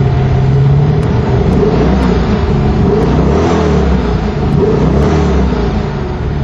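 1985 Corvette's 408 cubic inch V8 through a Corsa cat-back exhaust with high-flow cats, revs rising and falling from about a second in, then steadying near the end.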